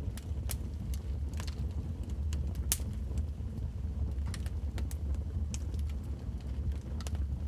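Fire burning in a fireplace: a steady low rumble with irregular sharp crackles and pops, about two each second.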